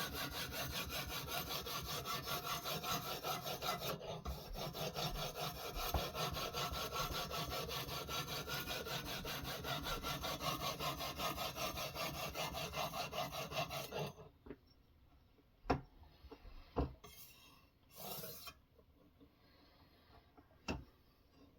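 Knife blade being stroked back and forth on a sharpening stone in a guided sharpening system: quick, steady, even rasping strokes that stop about two-thirds of the way through, followed by a few light, separate knocks and clicks.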